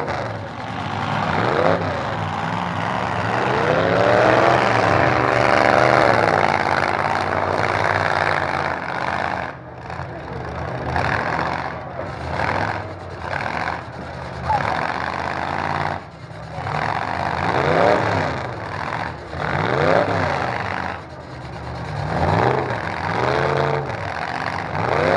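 Demolition derby truck engines revving hard over and over, their pitch climbing and dropping every second or two, over a constant din of engine noise.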